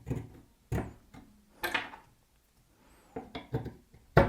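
Metal drill bits knocking and clattering against a wooden drill-bit holder block as they are handled and pushed into its holes. There are a handful of separate knocks, with a loud one near the end.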